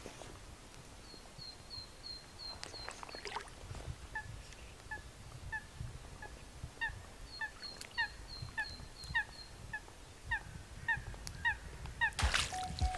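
Birds calling: a lower bird repeats short calls evenly, about two a second, and a second bird gives runs of higher, thin, quicker notes. A sudden loud rush of sound starts near the end.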